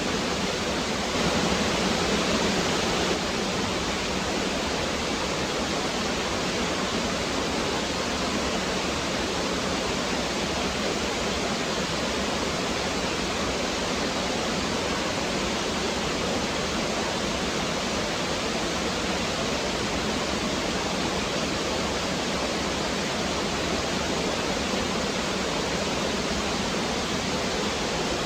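Woodland stream flowing over rocks, a steady rushing of water, a little louder for about two seconds shortly after the start.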